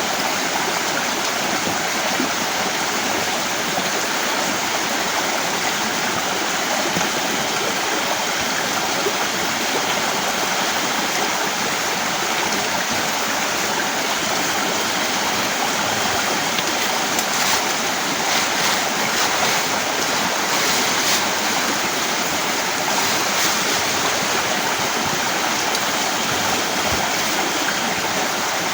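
Heavy rain falling as a steady, loud hiss, with a spell of sharper taps about two-thirds of the way through.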